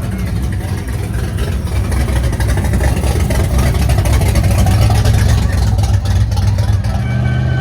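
Car engine noise at a cruise meet: a car engine running and revving, growing louder through the middle and easing slightly near the end.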